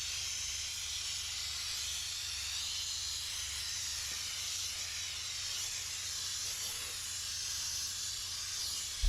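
Steam cleaner blowing steam from its nozzle: a steady, even hiss with a faint low rumble beneath.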